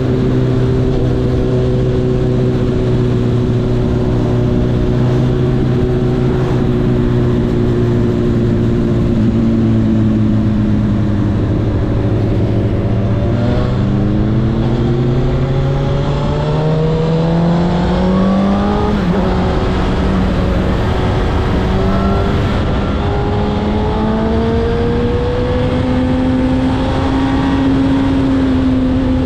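Honda CB1000R's inline-four engine running at steady revs. Its pitch dips slightly about nine seconds in, then climbs gradually over several seconds and holds higher toward the end.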